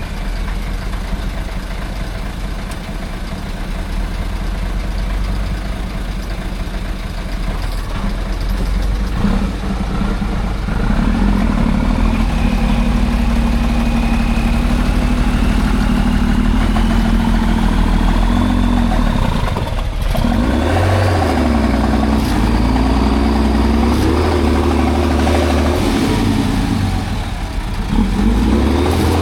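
Heavy off-road trial truck's engine. It runs at a low rumble, then from about ten seconds in it works louder and steadily under load with a thin whine climbing in pitch. In the last third it revs up and down several times.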